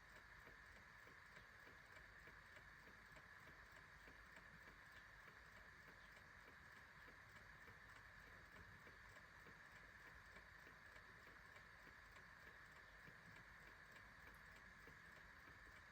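Faint, regular ticking of a clock over a steady hiss.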